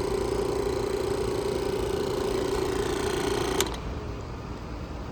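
Refrigerant recovery machine running with a steady hum, switched off with a click about three and a half seconds in, its hum stopping at once. Recovery is finished, the system pulled down to 0 PSI.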